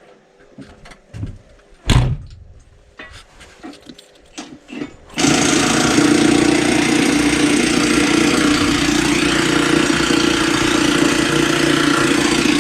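Metal parts clanking, with one loud knock, then a Milwaukee 1-inch cordless impact wrench starts suddenly and hammers steadily and loudly, driving a skidder wheel's lug nuts.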